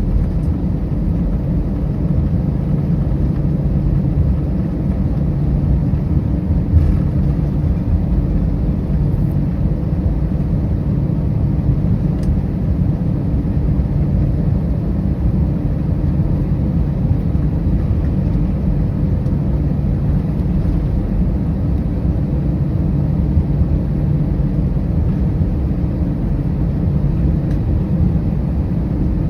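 Steady low rumble and hum inside the cabin of an Airbus A319 taxiing to the gate after landing, its engines at idle. There is one faint knock about seven seconds in.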